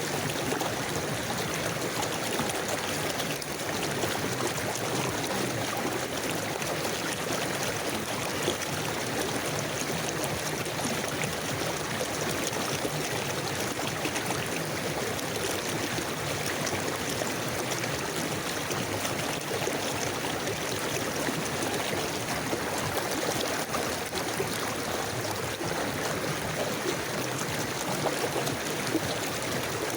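River water flowing steadily over rocks, a continuous even rush and babble.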